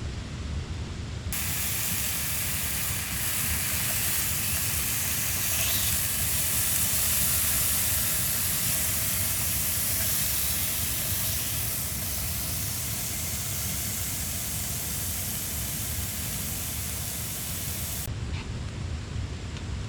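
A steady hiss, like gas or spray escaping, that starts abruptly about a second in and cuts off abruptly near the end, over a low background rumble.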